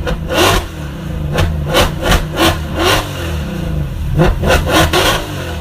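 Mercedes-Benz C63 AMG Black Series' 6.2-litre V8 revved hard again and again through a straight-through exhaust, pitch climbing and dropping with each blip, with short cracks and pops as the revs fall.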